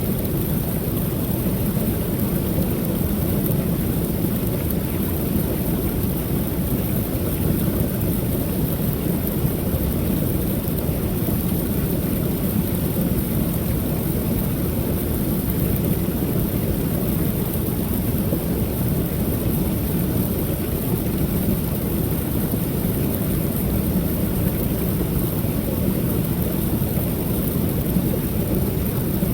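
Creek waterfall pouring steadily: a constant, deep rushing of falling water that never changes or breaks.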